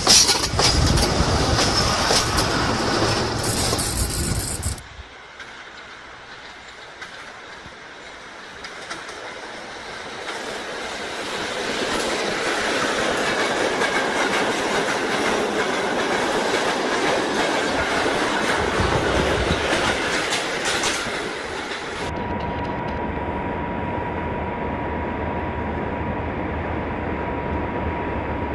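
Train running on the rails, its wheels clattering over the rail joints with some wheel squeal. The sound drops abruptly about five seconds in, swells again, and changes suddenly once more in the last third to a steady low rumble with a thin constant tone.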